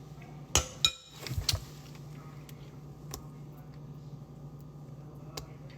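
Hard kitchenware being handled: two sharp clinks with a short ringing about half a second in, a quick cluster of knocks a second later, then a few faint ticks, over a steady low hum.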